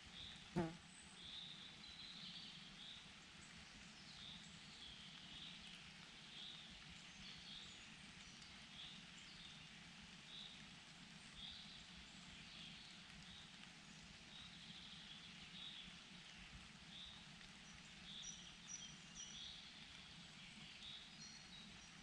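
Faint forest ambience: small birds giving short high chirps over and over, with a few higher thin notes near the end. A single sharp click sounds about half a second in.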